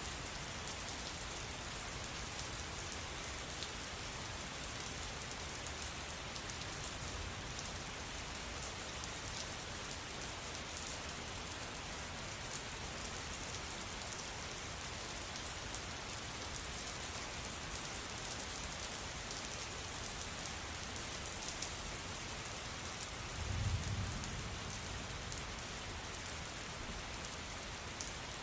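Steady rain falling on a surface, an even hiss with scattered small drop ticks. About three-quarters of the way through, a brief low rumble swells up and fades.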